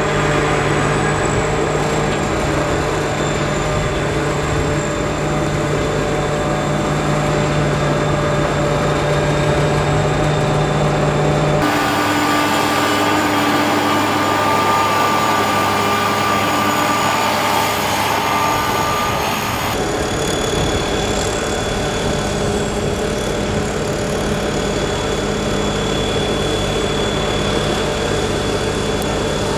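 A mini combine harvester's engine and machinery running steadily with a constant hum and a few held tones. The sound changes abruptly twice, about twelve and twenty seconds in.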